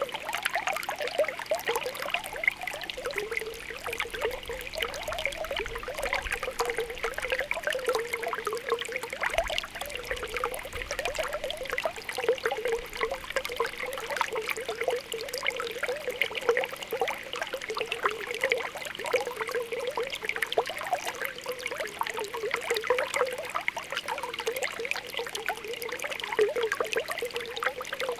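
Spring water welling up, bubbling and popping continuously with a trickling gurgle.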